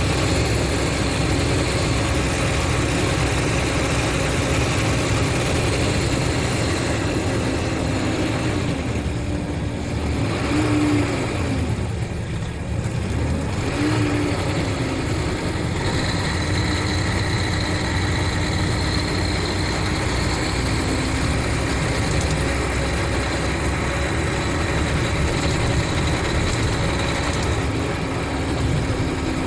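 Mercedes-Benz O500RSD coach's diesel engine running steadily. The sound eases briefly about ten seconds in, with a short gliding tone, then picks up again.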